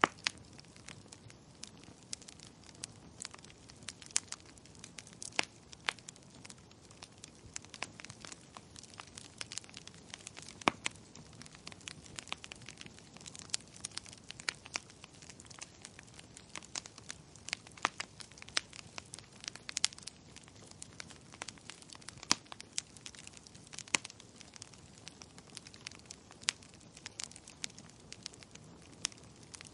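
Wood fire crackling in a fireplace: irregular sharp pops and snaps, several a second with a few louder ones, over a soft steady hiss.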